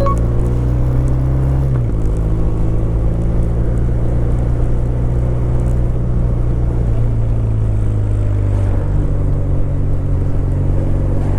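Kawasaki W800's air-cooled parallel-twin engine running steadily, its pitch stepping up about two seconds in and shifting again about two-thirds of the way through.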